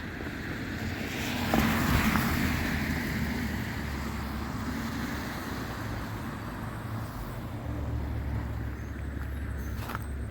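Road traffic: a vehicle passes close by, swelling to its loudest about one and a half seconds in and fading away, over a steady low rumble.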